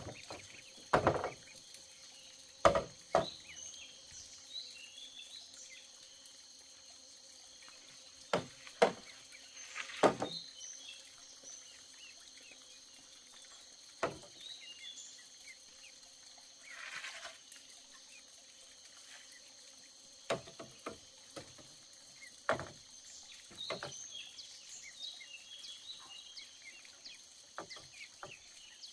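Scattered sharp knocks and clacks at irregular intervals, over a steady outdoor background of insects buzzing and birds chirping.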